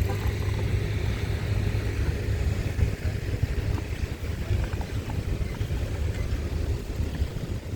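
Wind buffeting the microphone while riding a bicycle: a steady, fluttering low rumble.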